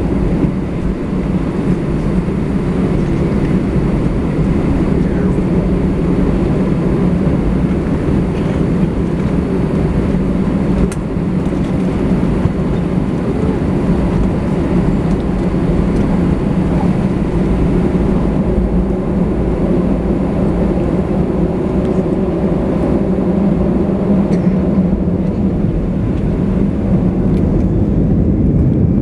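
Steady, loud engine and airflow noise inside the cabin of an Airbus A320 at takeoff power, with a steady low hum running under it.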